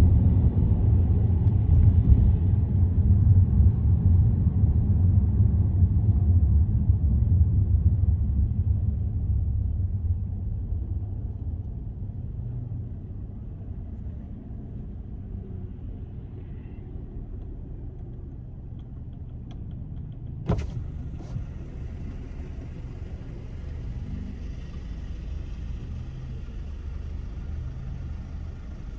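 Car driving, with a steady low rumble of road and engine noise that eases about ten seconds in as the car slows, and a single sharp click about two-thirds of the way through.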